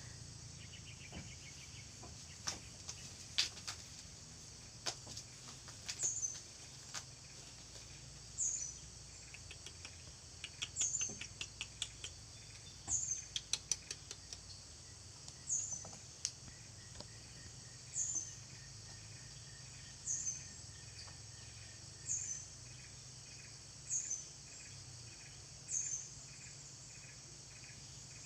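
Outdoor wildlife ambience: a short, high chirp repeats about every two seconds over a steady high insect hiss. Scattered light clicks and taps come in the first half, and a faint buzzy pulsing joins in the second half.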